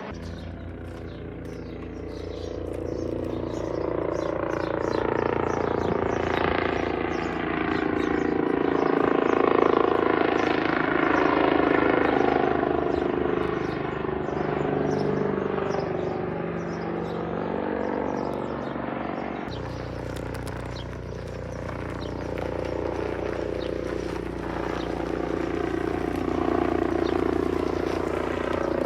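Helicopter flying past: the rotor and engine sound grows louder to a peak about ten seconds in, then fades. About twenty seconds in the sound changes abruptly and another pass starts to build.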